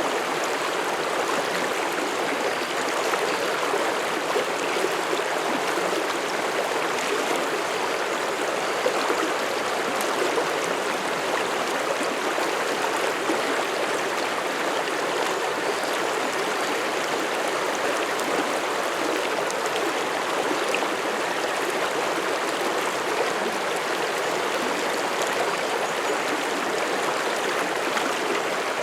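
Mountain stream flowing over rocks: a steady rushing and babbling of water that does not change.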